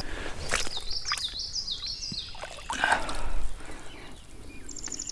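Running stream water with a small bird singing a quick series of about five repeated high whistled notes, and a brief louder burst of splashing noise about three seconds in as a small brown trout is landed.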